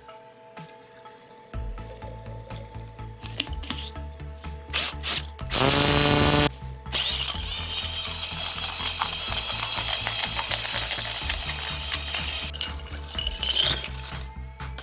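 Cordless hammer drill running: its motor winds up with a rising whine about six seconds in, then several seconds of dense, rapid mechanical ratcheting follow.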